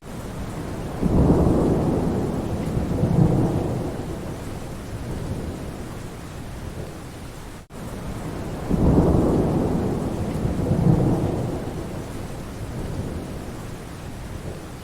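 Steady rain with low rolls of thunder: a rumble swells about a second in, fades over several seconds, then the same rumble comes again about eight seconds in. It is a short rain-and-thunder recording repeating, with a brief dip in level between repeats.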